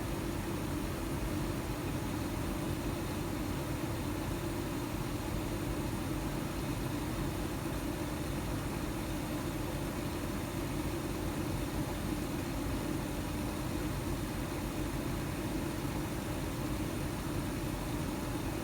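Carrier gas furnace running with a steady, unchanging hum over a low rumble, from its draft inducer motor, which is making an abnormal noise.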